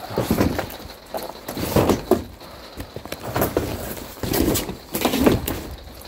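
Bundles of firewood being handled and set down, a series of wooden knocks and thumps, about six in a few seconds.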